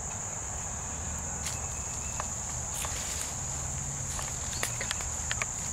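Steady high-pitched chirring of insects, likely crickets, with scattered light footsteps and small crackles, more of them in the last second or so.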